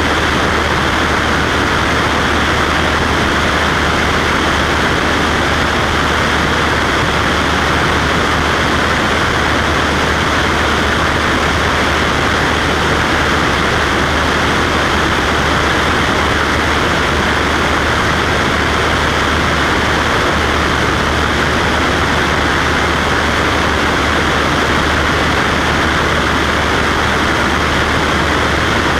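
Cessna Skywagon's piston engine and propeller running steadily: a loud, even drone with a deep low hum underneath.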